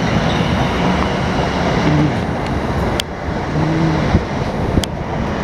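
South Western Railway Class 444 electric train running past close by: a loud, steady rumble of wheels on rails, with a sharp click about three seconds in and another near the end.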